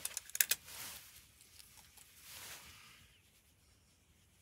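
Small clicks and scratchy rustles of fingers handling and picking at an adhesive mount pad, trying to lift its backing film: a quick cluster of clicks about half a second in, then two soft scratching rustles.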